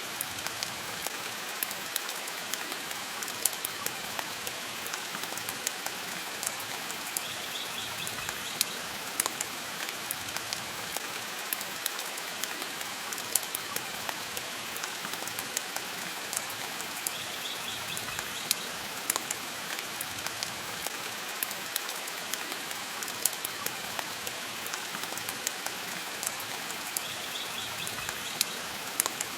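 Steady rain mixed with a crackling wood fire: a constant hiss dotted with many sharp pops and clicks. A faint, short, high flutter recurs three times, about ten seconds apart.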